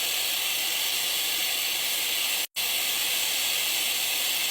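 Shark blow dryer running, a steady rushing hiss of air that cuts out for an instant about halfway through and then resumes.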